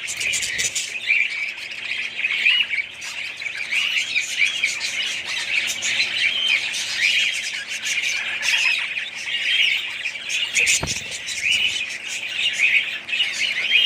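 Budgerigars chattering: a dense, continuous mix of many short, overlapping chirps and squawks, with a single soft thump about eleven seconds in.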